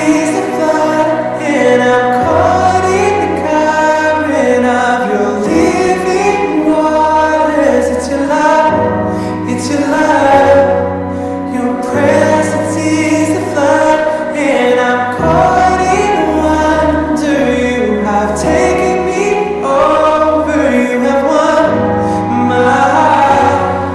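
Gospel-style choral music: a choir singing a worship song over a sustained bass accompaniment.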